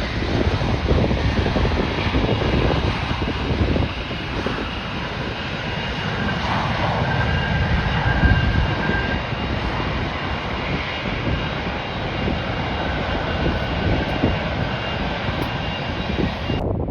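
Airliner engines running as a plane passes: a steady rumble with a thin high whine over it, and wind buffeting the microphone. The whine and the upper part of the noise cut off suddenly just before the end.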